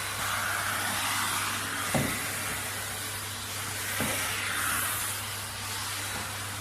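Rowenta RO3950 bagged vacuum cleaner running, a steady hiss of air over a low hum, swelling and easing slightly. There are two short knocks, about two and four seconds in.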